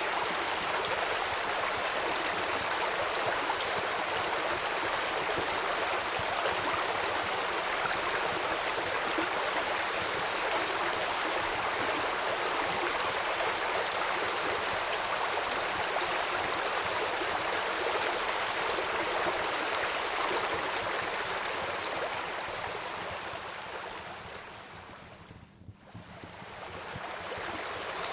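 Steady rush of flowing river water, with a faint short high chirp repeating about once or twice a second through the first two-thirds. About 25 seconds in, the whole sound fades down almost to nothing and then swells back up.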